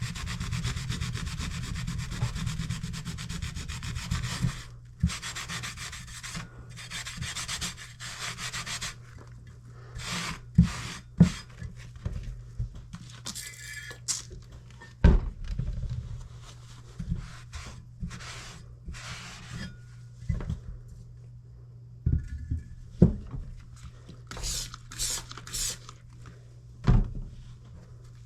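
Kitchen knife blade scraping back and forth across a sharpening stone: rapid, continuous gritty strokes for the first several seconds, then shorter runs of strokes broken by sharp knocks and clicks. A steady low hum sits underneath.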